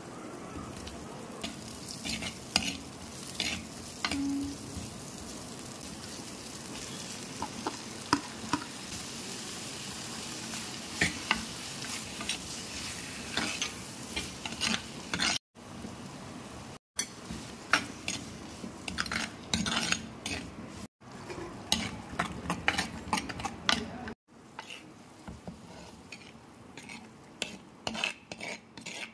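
Onions and tomatoes frying in oil in a clay pot, with a steady sizzle, while a metal ladle stirs them and scrapes and clicks against the clay; the clicks are the loudest sounds. The sound cuts off abruptly several times.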